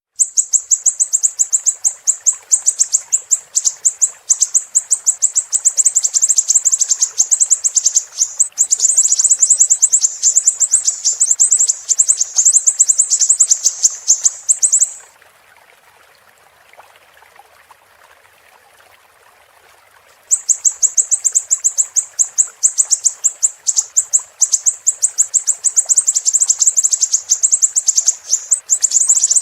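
Siri-siri bird singing a rapid, piercing high-pitched trill of sharp repeated notes over a faint hiss of running water. The song breaks off about halfway, leaving only the water for about five seconds, then starts again.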